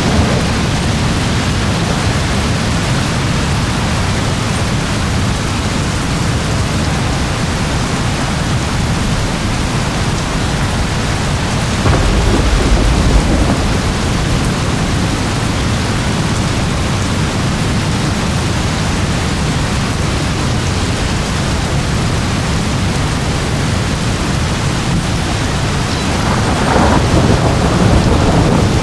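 Steady heavy rain falling, with low thunder rumbling twice: a deep roll about twelve seconds in and another swell near the end.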